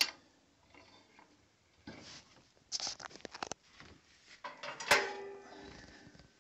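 Metal clicks, scrapes and clanks as the wood-burning stove's door and its fittings are shut. The loudest is one sharp, ringing clank about five seconds in.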